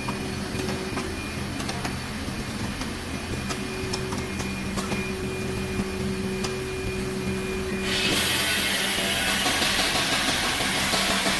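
Steady machine hum with a few faint clicks. About eight seconds in, a loud, even hiss of air starts suddenly and keeps going.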